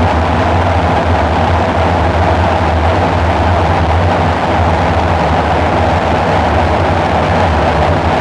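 Dark ambient synthesizer drone: a loud, steady, unchanging low hum over a noisy haze, with a mid-range band of tone and no rhythm.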